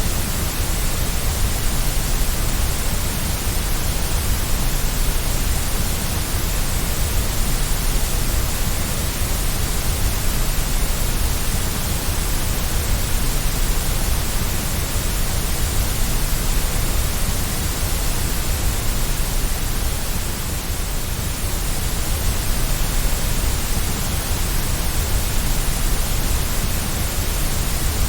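Steady, unbroken white noise: an even hiss across the whole range, heaviest in the deep low end, played as a sleep aid.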